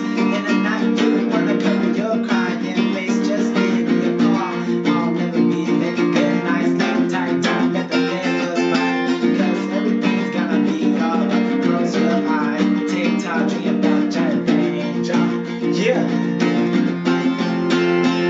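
Acoustic guitar music: an instrumental passage of a song with no singing.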